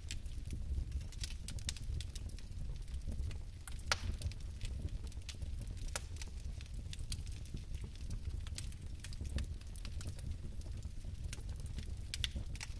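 Fireplace fire burning with a steady low rumble and irregular sharp crackles, a louder pop about four seconds in and a few more near the end.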